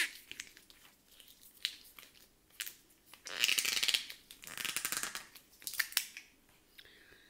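Close-miked chewing of a crisp breaded chicken strip: wet mouth clicks, then two spells of crackly crunching about three and a half and four and a half seconds in.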